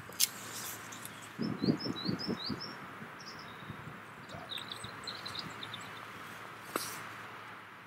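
Small birds chirping in quick, high, rising notes, a run of them about two seconds in and more around five seconds, over a steady background hiss. A cluster of soft low thumps, the loudest sounds, comes between about one and a half and two and a half seconds in, with a sharp click near the start and another near the end.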